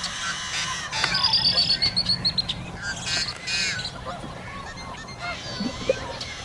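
Duckling and other fowl calling: a rapid run of high, slightly falling peeps about a second in, followed by scattered squawking calls.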